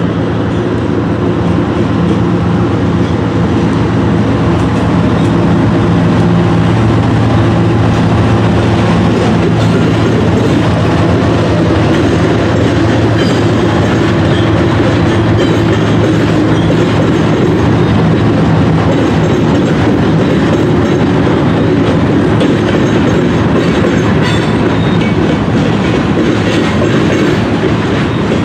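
A diesel-hauled train passing close by. A steady low engine drone runs for the first twelve seconds or so, and then the loud rumble and clickety-clack of the cars' wheels over the rail joints carries on.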